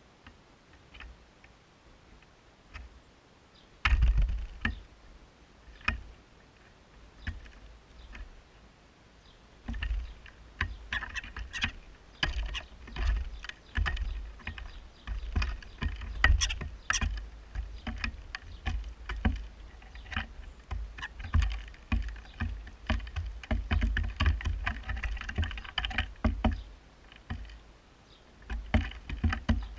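Starlings feeding on a garden bird table right beside a GoPro: irregular taps and knocks from pecking beaks and landing feet, with low thuds. A few scattered clicks at first, then busy, fast tapping from about ten seconds in.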